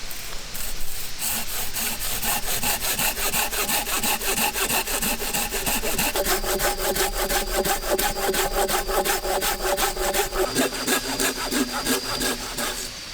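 Hand saw cutting through a fallen log for firewood, in quick, even back-and-forth strokes. The blade rings with a steady whine that shifts pitch partway through, and the sawing stops just before the end.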